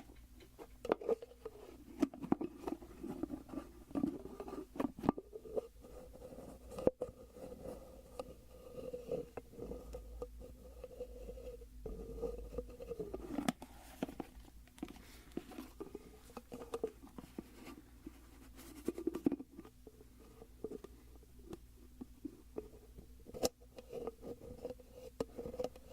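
Irregular light tapping and rubbing on a hard object handled close to the microphone: scattered taps and clicks with a soft wavering rubbing sound between them.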